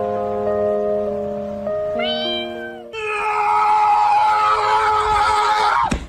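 Domestic cat meowing over background music: a short meow about two seconds in, then a long, loud drawn-out meow that drops in pitch as it ends.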